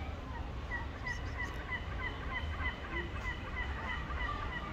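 A bird calling in a rapid, even series of short chirps, several a second, over a steady low rumble.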